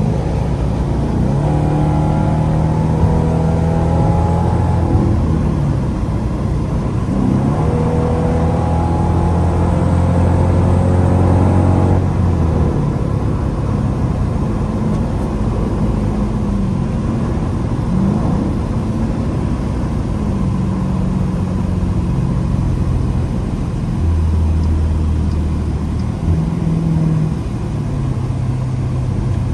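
Straight-piped Dodge Durango V8 exhaust under hard acceleration. The pitch climbs and drops back at each gear shift a few times over the first twelve seconds, then eases to a lower drone, and later rises again.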